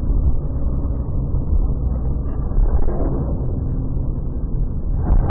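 Steady road and engine rumble of a car driving, heard from inside through a dashcam microphone. Near the end a sudden, much harsher and brighter noise breaks in.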